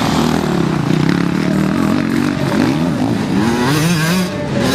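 Several motocross bikes racing, their engines revving up and down so the pitch rises and falls again and again, with the sounds of different bikes overlapping.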